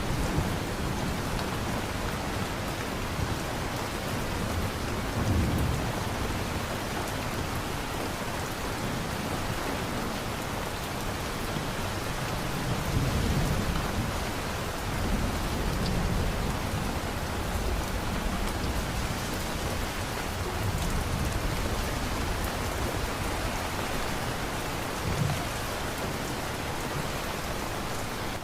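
Steady heavy rain falling, with low rolls of thunder rumbling several times, about 5, 13, 16, 21 and 25 seconds in.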